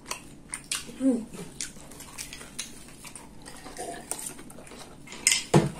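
Close-up chewing of a bite of broccoli pizza: wet mouth clicks and the crunch of crust, with a short "mm" hum about a second in and a louder bump near the end.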